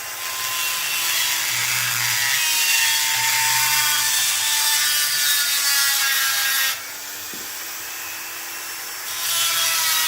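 Small high-speed power tool grinding out the inner diameter of a steel thrust washer, its pitch sagging slightly under load. It stops about seven seconds in and starts again about two seconds later.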